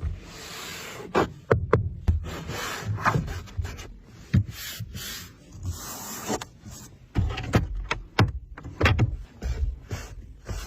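Irregular rubbing and scraping with a scatter of sharp clicks and knocks: handling noise.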